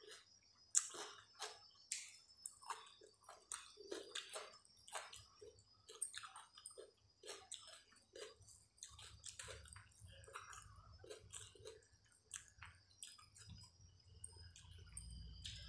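Close-miked eating sounds of rice and curry eaten by hand: irregular wet chewing and lip smacks, with soft squelches of rice being mixed with curry by fingers on a steel plate.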